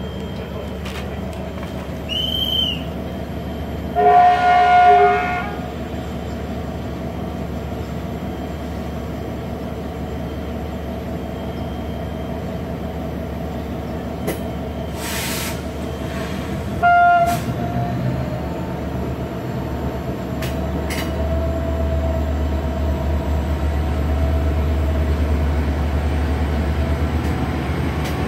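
A short high whistle, then a train horn sounding for about a second, then a shorter second horn blast. After that a low train rumble builds steadily as the trains start moving.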